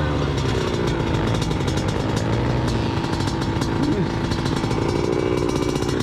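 Small off-road motorcycle engine running under throttle on a steep hill climb, its revs rising and falling unevenly.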